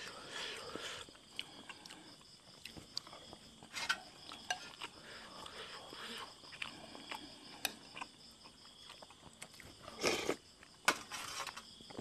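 Close-up mouth sounds of chewing boiled buffalo skin in tom yum soup, with scattered light clicks of a spoon against a ceramic bowl. The eating noises get louder about four seconds in and again around ten seconds in.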